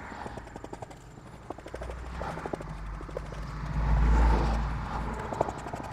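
Wooden paint stick stirring two-part J-B Weld steel epoxy: irregular small clicks and scrapes, with a low rumble swelling to its loudest about four seconds in.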